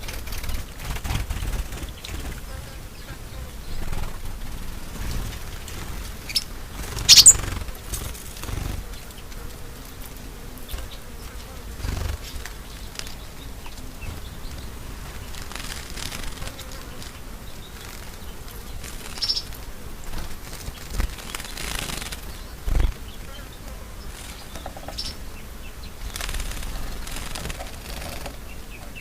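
Wild birds chirping now and then over a steady low rumble, with the loudest chirp about seven seconds in.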